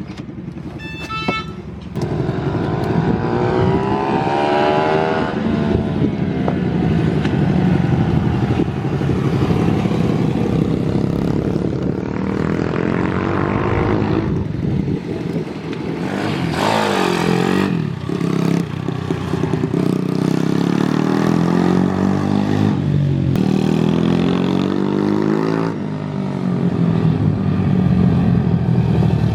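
Pit bike's small single-cylinder four-stroke engine revving hard and dropping back over and over, as the bike is ridden around a track and shifted through its gears.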